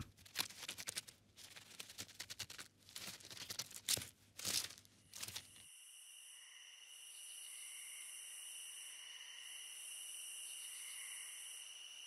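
Faint rustling and scratching of house mice moving through dry litter, a rapid scatter of small crackles that stops abruptly about halfway through. Then a steady insect chorus takes over in several unbroken high tones.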